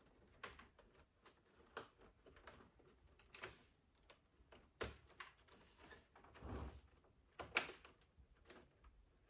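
Faint, irregular clicks and knocks of coffee machine parts being handled during disassembly, with a duller thud about six and a half seconds in and a sharper click a second later.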